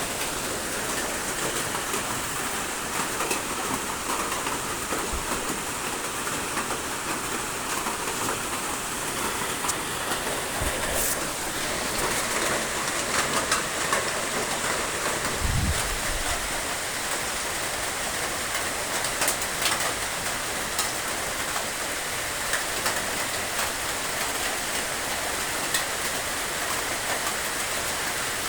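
Steady rain, with scattered individual drops ticking and a brief low thud about halfway through.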